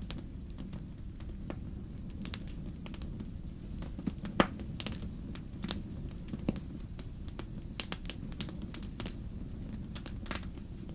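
Wood fire burning in a fireplace, crackling with irregular sharp pops and snaps over a steady low rumble; one louder pop about four seconds in.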